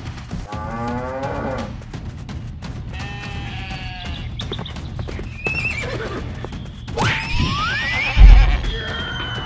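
Cartoon sound effects over steady background music: two animal calls in the first half, then a rising whistle-like glide and a heavy low thump near the end, the thump being the loudest sound.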